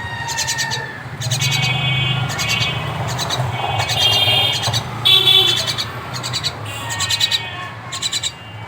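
Pet common myna calling over and over, short high chirping calls coming about once or twice a second.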